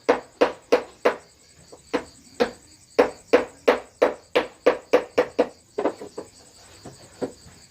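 Wooden mallet tapping a carving chisel into wood, about three knocks a second, with a short pause after about a second and lighter taps near the end. Crickets or other insects trill steadily behind.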